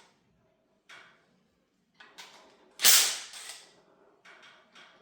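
Metal clanks and clicks of tools and engine parts during an engine teardown. There are a few light knocks, then one sharp, loud clank just under three seconds in, then a quick run of lighter clicks near the end.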